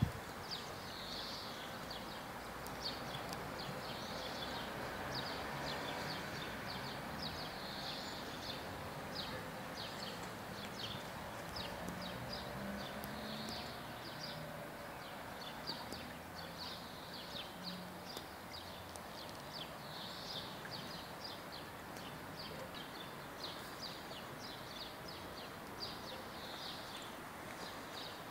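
Small birds chirping in short, irregular bursts over a steady outdoor hiss, with one sharp knock right at the start.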